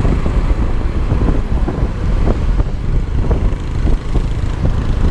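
Wind buffeting the microphone of a moving Yamaha Aerox scooter, with its engine running underneath.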